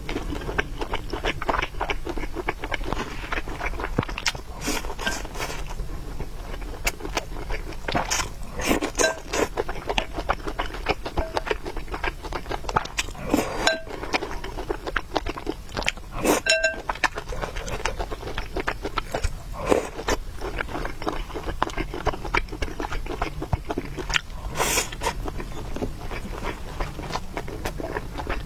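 Close-miked eating: a person chewing noodles and meatballs, with a steady stream of small wet clicks and smacks and a few louder ones. A faint steady low hum runs underneath.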